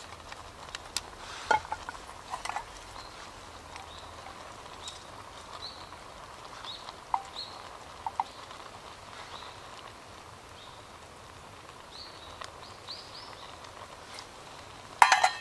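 Birds giving short chirping calls, scattered throughout, over a few light knocks and clinks. A quick clatter near the end is the loudest sound.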